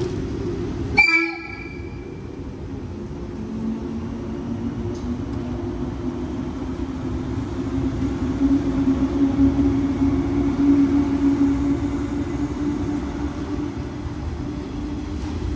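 A 185 series 200-subseries electric train gives one short horn blast about a second in as it departs, then pulls away. Its motors give a steady low hum that slowly rises in pitch and grows louder as the cars roll past.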